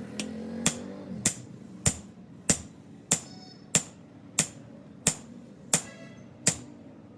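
Hammer striking metal in a steady rhythm, about one and a half blows a second, some blows leaving a short metallic ring.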